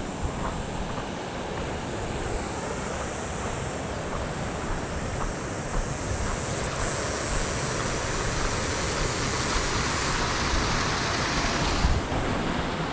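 Steady rush of water pouring out of a dam's river-release outlet; the hiss grows brighter from about six seconds in.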